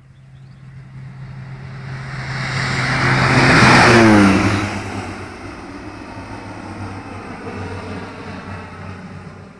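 Air Tractor AT-502B turboprop crop duster making a low pass. The engine and propeller noise builds to its loudest about four seconds in, drops in pitch as the plane goes by, then fades away.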